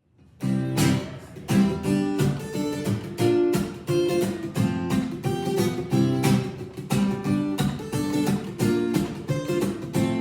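Acoustic guitar strummed in a steady rhythm as a song's instrumental intro, coming in about half a second in.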